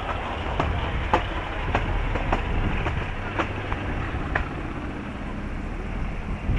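Wind rumbling on the microphone, with irregular clicks and knocks scattered through it.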